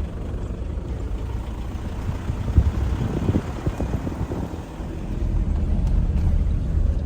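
Road and engine rumble of a moving vehicle, a steady low drone with a few short knocks from bumps about halfway through.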